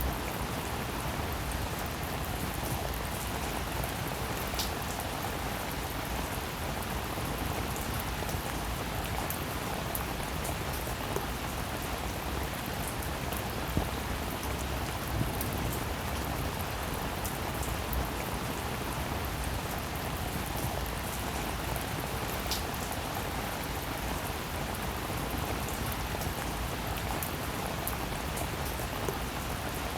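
Steady heavy rainfall, an even hiss of rain with occasional sharper individual drop taps standing out.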